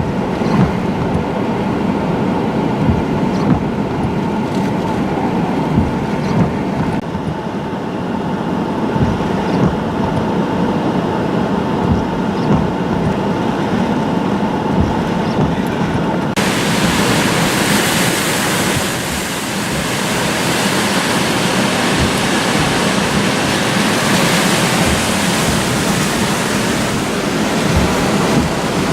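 Hurricane-force wind and rain in Hurricane Florence's eyewall: a loud, steady rush. About halfway through it suddenly turns brighter and hissier.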